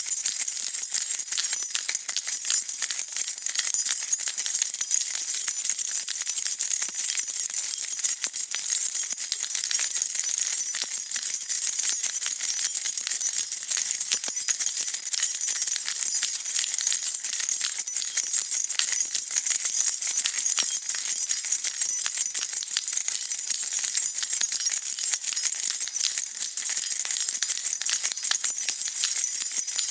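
A bunch of metal keys jingling continuously as they are shaken, a dense, steady, high-pitched metallic rattle of many small clinks.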